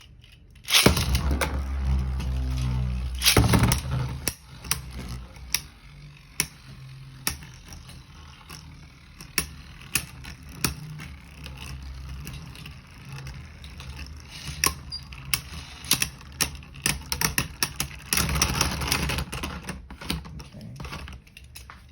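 Beyblade tops spinning and clashing in a plastic stadium, with sharp clacks as they hit each other and the walls. There is a louder rattling stretch about a second in and another near the end.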